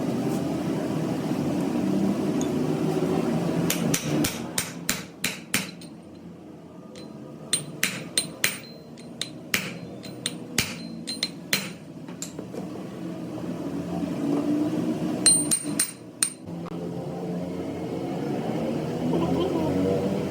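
Hammer blows on metal in three runs of rapid strikes, each blow ringing briefly, over a steady low drone.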